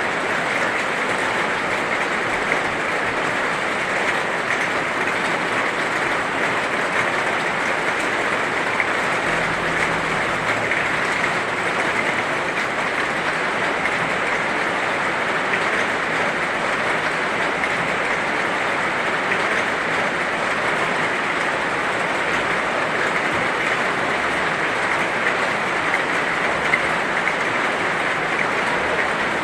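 Heavy rain falling steadily, a dense, even patter with no break.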